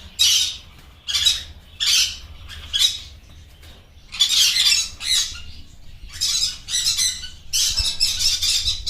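Blue yellow-sided conure, a colour mutation of the green-cheeked conure, squawking repeatedly: short squawks spaced a second or so apart, coming faster and running together near the end.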